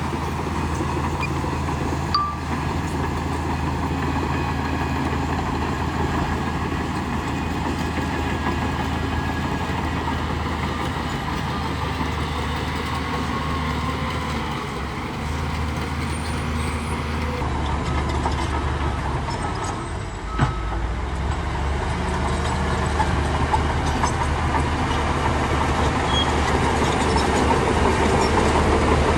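A bulldozer's diesel engine runs steadily under load, with a general clatter of machinery. There are two sharp clanks, one about two seconds in and one about twenty seconds in.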